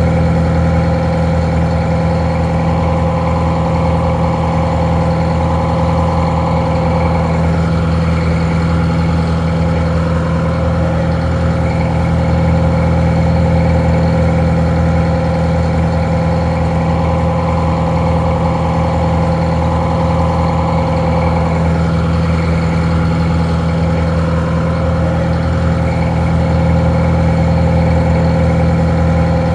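Detroit Diesel 4-71 two-stroke inline-four diesel idling steadily, sounding a little muffled.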